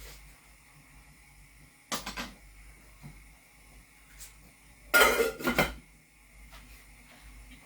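Kitchenware clattering: a short clatter about two seconds in, then a louder, longer one about five seconds in.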